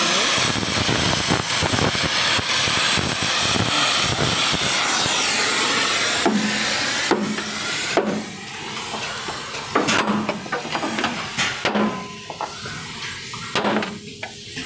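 A loud steady hiss for about six seconds. It then drops to a quieter hiss, under which come about seven sharp, irregularly spaced hammer blows on metal, typical of riveting work on a truck.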